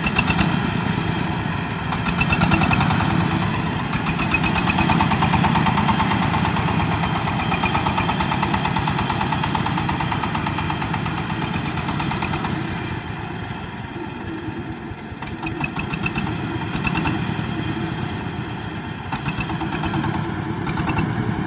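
Engine of a corn sheller machine running steadily, a continuous drone that swells and dips in loudness a few times.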